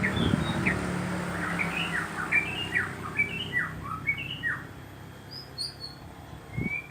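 Songbird calling: a quick run of short, sharply falling chirps, then a few higher, thinner notes. A low hum underneath fades out in the first two seconds.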